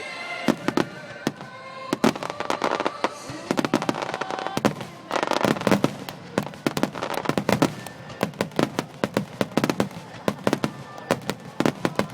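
Starmine fireworks display: a rapid, continuous barrage of shell bursts and crackling reports, many sharp bangs a second, over accompanying music.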